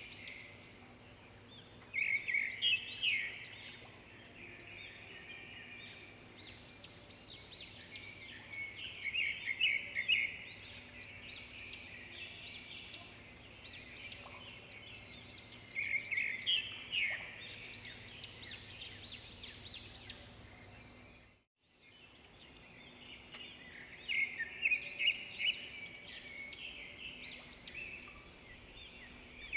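A busy chorus of small birds chirping and twittering in quick, high-pitched notes, swelling louder several times. There is a brief moment of dead silence about two-thirds of the way through.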